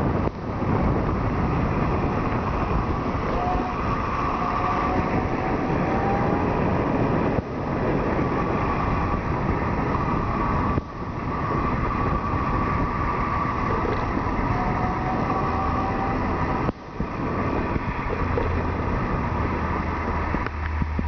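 Electric-converted moped being ridden: steady wind and road noise with a faint motor whine that rises in pitch a few times. The sound drops out sharply three times.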